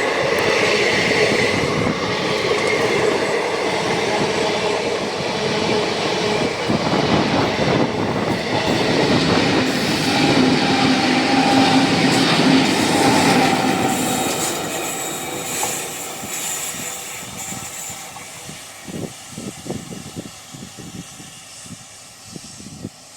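Train rolling past on the rails, its wheels clattering and squealing in places; the sound fades away as the train moves off, with a few last wheel clicks near the end.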